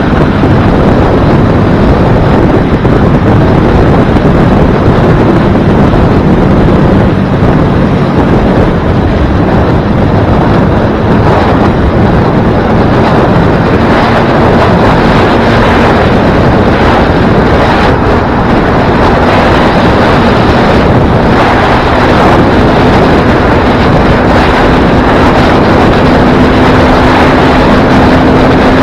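Motorcycle riding at steady highway speed: heavy wind rush on the microphone over the drone of the bike's engine, which settles into a slightly higher steady note in the last few seconds.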